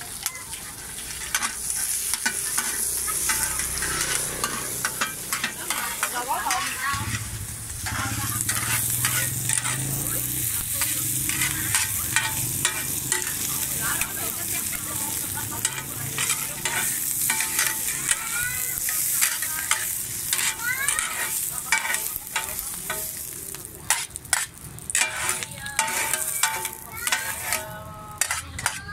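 Greens sizzling in hot oil on a large flat frying pan while metal spatulas stir and scrape them, with a steady hiss of frying under frequent clicks and scrapes of the spatulas against the pan, coming thicker near the end as the greens are lifted out.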